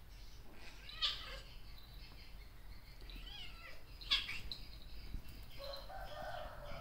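Birds chirping in the background: faint repeated chirps, two short sharp calls about a second in and about four seconds in, and a longer, lower call near the end.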